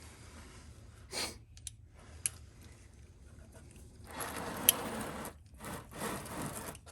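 A ratchet wrench being handled and worked: a few sharp metallic clicks among short bursts of scraping and rustling, the loudest stretch in the second half with one loud click.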